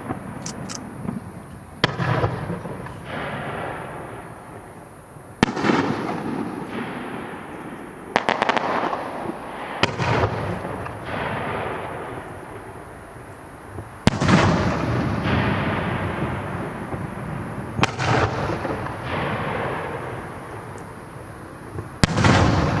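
Aerial firework shells bursting one after another: about seven sharp booms a few seconds apart, each followed by a long, slowly fading rolling echo. A burst of fine crackling comes a little before the middle.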